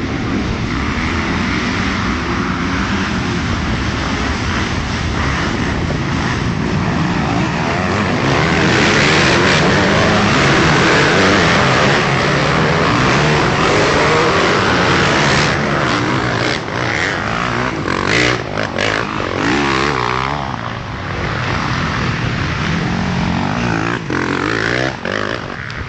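A field of MX1 motocross bikes, a mix of four-stroke and two-stroke engines, revving hard as they accelerate out of a corner. The sound builds to its loudest as the main pack passes, about eight seconds in. Later it thins into single bikes whose revs rise and drop.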